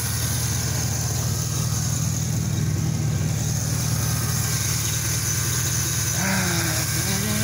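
Chevrolet Camaro's 6.2-litre V8 idling steadily, heard from over the open engine bay.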